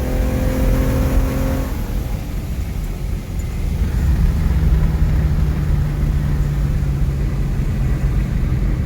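Ford Mustang S550's 3.7-litre V6 running hard on a pass. A high, steady engine note drops away about two seconds in, giving way to a lower steady drone with constant road rumble.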